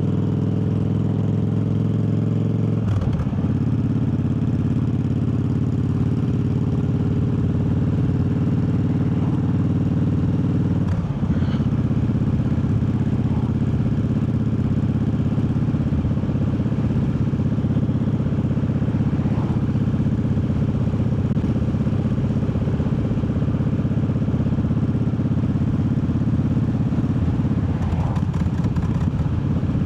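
Triumph Bobber's 1200 cc parallel-twin engine running under way, changing gear about three seconds in and again about eleven seconds in.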